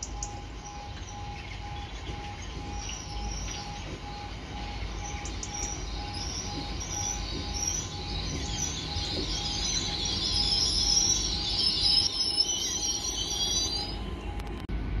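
Great Western Railway Class 800 train running into the platform and slowing to a stop. High brake squeal grows louder over the last several seconds. Under it an evenly pulsing beep holds one pitch throughout and stops just before the end.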